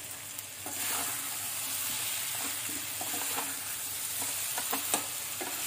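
Boiled potato pieces and drumsticks frying in masala in a metal pan, sizzling steadily. A metal spatula stirs them, scraping and clicking against the pan. The sizzle strengthens under a second in.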